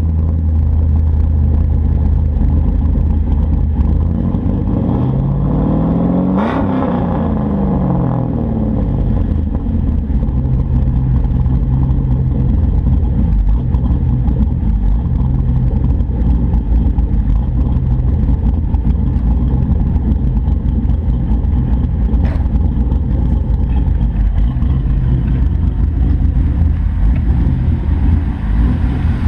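A 5.3 LS V8 with a Trick Flow 228/230 cam, breathing through stock 1998 Camaro manifolds, dual 2.5-inch pipes and a 4-inch Mufflex cat-back with a Spintech muffler, idling. About five seconds in it is revved once, climbing and falling back to idle over about four seconds, then idles on steadily.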